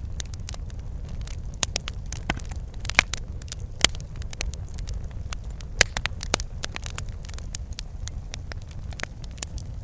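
Wood fire burning in a fireplace: irregular sharp crackles and pops over a steady low rumble of the flames, with a few louder pops.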